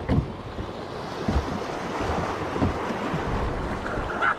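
River water rushing around a small aluminum jon boat as it drifts through fast current, with wind buffeting the microphone and a few low knocks.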